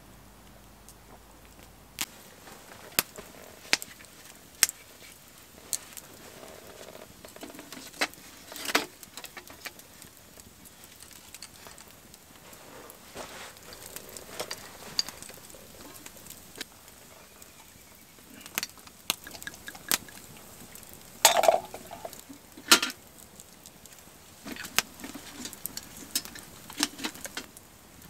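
Wood fire crackling: irregular sharp pops and snaps, a few louder ones, over a faint steady hiss.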